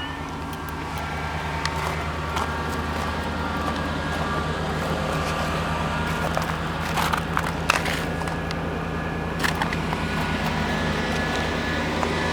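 The 1988 Chevy Silverado's 305 small-block V8 running steadily on a cold start. A few sharp clicks come about seven to eight seconds in.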